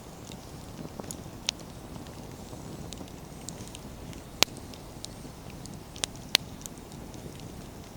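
Wood campfire burning: a steady low rush of flame with scattered crackles as the firewood pops, two of them sharp and loud, about halfway through and again near the end.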